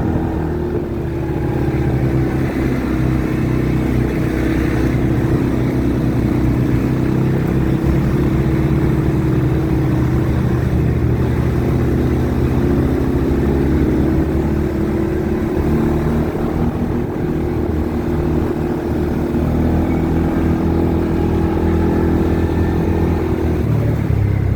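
ATV engine running steadily while under way, its pitch holding fairly even throughout.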